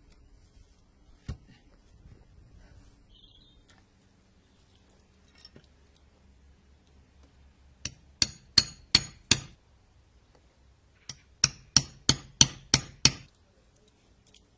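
Hammer blows with a metallic ring, in two quick runs of about three strikes a second: five or six strokes, a short pause, then about seven more. A single knock comes about a second in.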